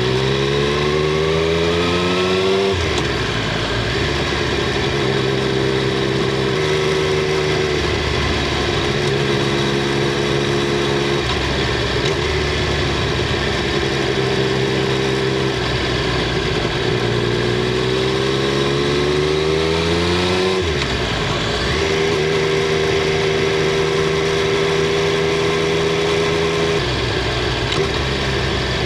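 Triumph Street Triple 765 R three-cylinder engine and exhaust under way, heard from under the seat. The engine climbs in pitch under throttle and drops abruptly twice, near the start and about two-thirds through, holding a steady note at cruise in between.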